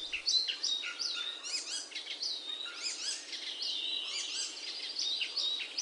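Small songbirds chirping and twittering in quick, overlapping calls, many of them short descending chirps repeated several times a second.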